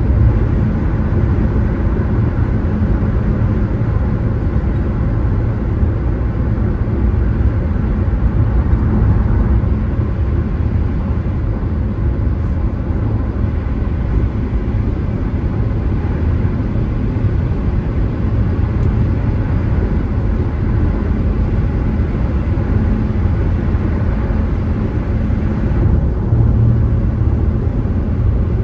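Steady low rumble of a car driving: tyre and engine noise.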